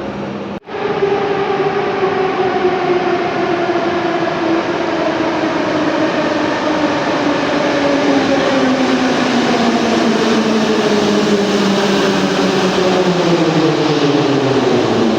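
Metro train's traction motors whining over the running noise, the whine falling slowly and steadily in pitch as the train slows down. It begins about half a second in.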